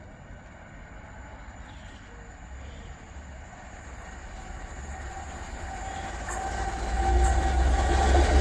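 A train approaching along the line, its rumble growing steadily louder, with steady tones coming in over the last couple of seconds as it draws near.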